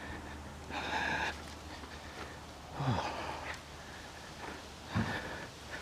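A person's breathing: three short breaths or sniffs about two seconds apart.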